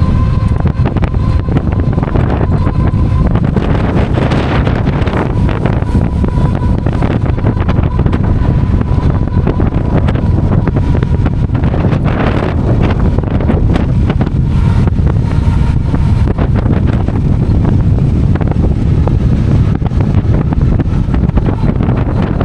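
Strong wind buffeting the microphone, a loud, dense low rumble that swells in gusts. A faint thin whine comes and goes beneath it.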